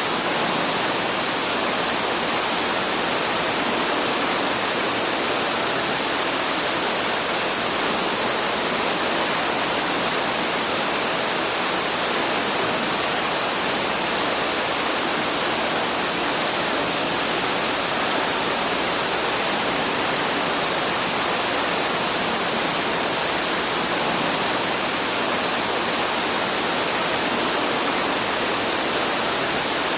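Waterfall rushing, a steady hiss of falling water with no let-up.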